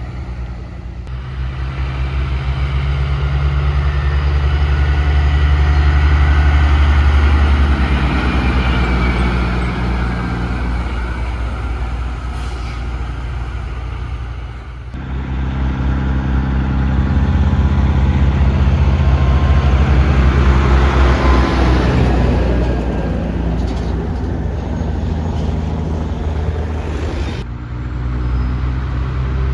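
Truck engines running and passing by, in several short clips cut together. The level swells as each truck goes by and changes abruptly at each cut.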